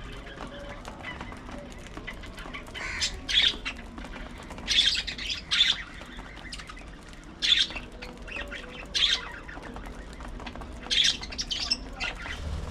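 Budgerigars chattering, broken by loud, short squawks, about eight of them at irregular intervals.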